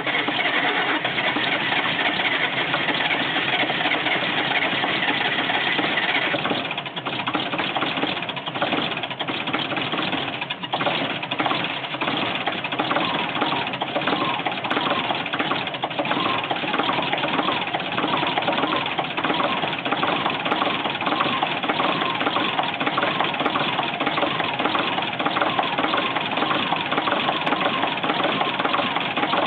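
Diesel engine idling with a fast, even clatter just after a cold start. The sound changes about six seconds in.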